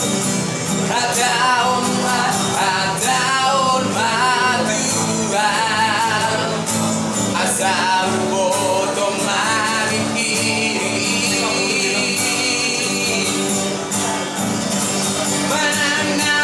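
A street busker singing a song with vibrato in the voice, over a steady instrumental accompaniment with a regular beat.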